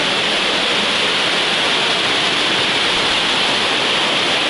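Waterfall rushing: a steady, loud hiss of falling water that does not change.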